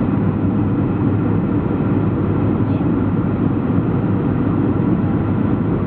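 Steady drone of a Boeing 737-400 in flight, heard inside the cabin: its CFM56 engines and the airflow past the fuselage make an even, low rumble.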